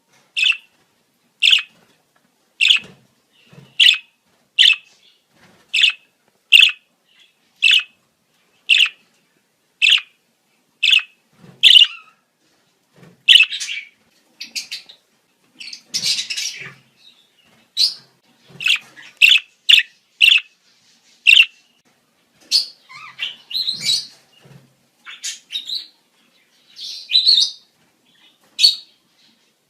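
Budgerigar breeding-season calls: a run of short, sharp, high chirps at about one a second, becoming more varied and irregular in the second half.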